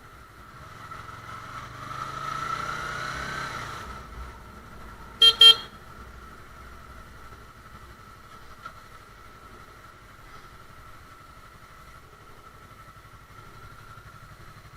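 Motorcycle engine rising in pitch as it accelerates for a few seconds, then two short horn blasts about five seconds in, the loudest sound; afterwards the engine runs on steadily.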